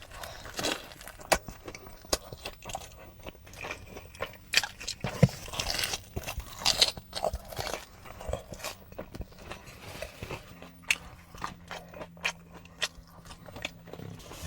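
Close-miked eating: crunchy bites and chewing, full of sharp irregular crackles.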